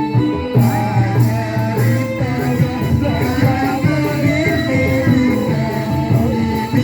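Live band music with a voice singing a wavering melody over drums and other instruments.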